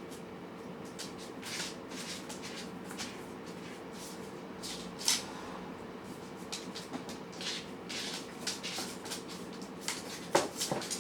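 Cats eating: short, irregular crisp chewing and mouth noises over a faint steady hum. Near the end a short squeak falls in pitch, followed by a second, briefer one.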